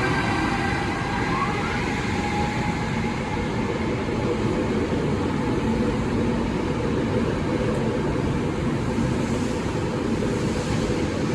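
SEPTA Regional Rail train hauled by an ACS-64 electric locomotive pulling out of the station, its cars rolling past with a steady, loud rumble and hum. A high electric whine fades out within the first couple of seconds.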